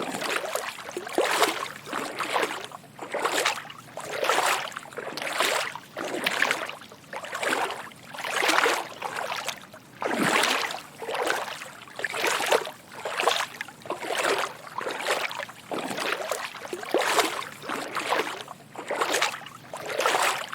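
Footsteps wading through shallow water: a steady walking rhythm of soft splashing sloshes, a little faster than one a second.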